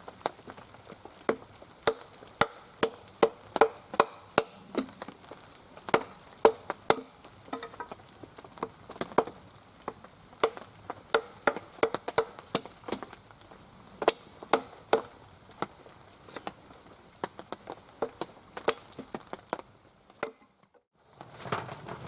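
A run of sharp, irregular knocks and taps, a few each second and varying in strength, breaking off briefly near the end.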